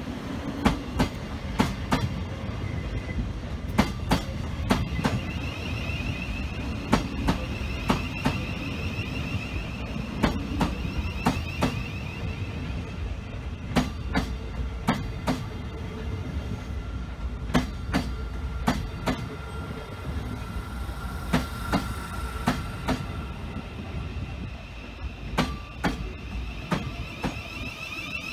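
Train wheels rolling over rail joints and pointwork: a steady low rumble with repeated sharp clicks at irregular spacing. A wavering high wheel squeal comes in about five seconds in and again near the end.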